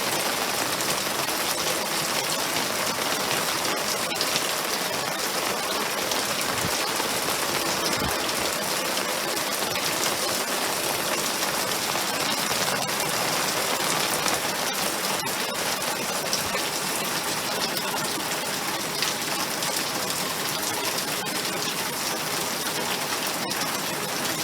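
Steady rain falling: an even hiss of many drops, with no let-up.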